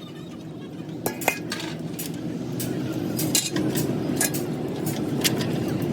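Irregular sharp metallic clinks and taps, metal parts or tools knocking together, over a steady low hum that grows slowly louder.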